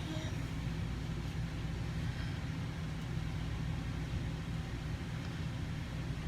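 Steady low rumble of background noise at an even level, with no distinct events.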